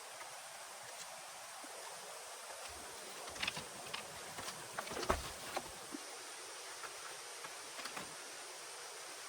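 Steady hiss of heavy rain, with a cluster of light knocks and clicks from about three to six seconds in, the loudest about five seconds in, and a few more near the end.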